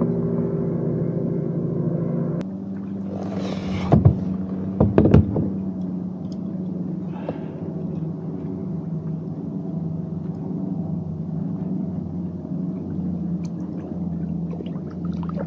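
A steady low motor hum, with a brief rush of water and a few sharp knocks about four to five seconds in.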